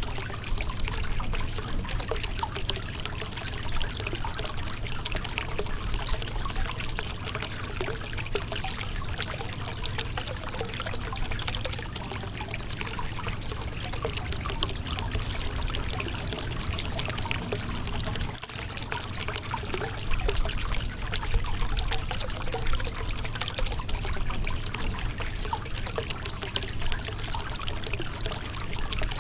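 Shallow river water running steadily over a rocky bed, a continuous rushing with many small splashes and gurgles.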